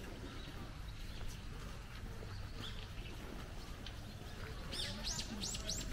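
A bird calls a quick run of about five high, arched chirps near the end, with a fainter chirp earlier, over a low steady outdoor rumble.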